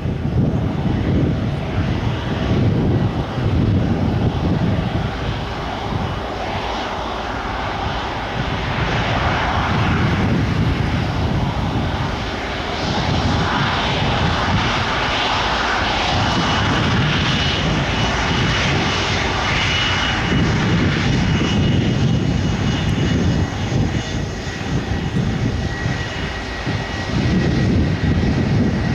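Jet airliner at takeoff power: a loud, continuous engine rumble that swells and eases every few seconds. A faint high whine shows through in the middle.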